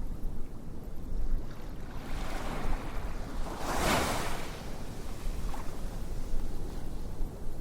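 Steady rushing, surf-like noise with a low rumble, swelling once to a peak about four seconds in and then fading, like a wave washing in.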